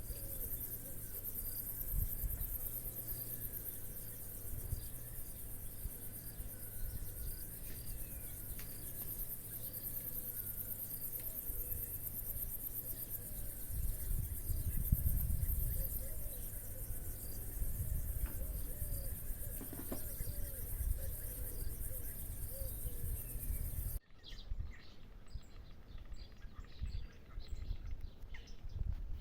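Field insects stridulating in a continuous high-pitched shrill, over a low rumble. About 24 seconds in the shrill cuts off abruptly and short bird chirps follow.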